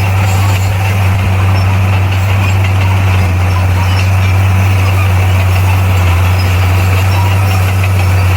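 Heavy earthmoving machine's diesel engine running steadily at a constant, low pitch.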